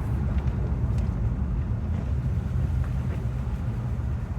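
Steady road noise inside a moving car: low engine and tyre rumble with a light hiss.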